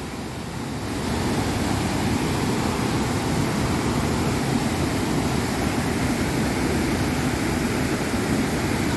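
Steady rushing roar of the Iguazu waterfalls, a dense even noise that swells slightly about a second in.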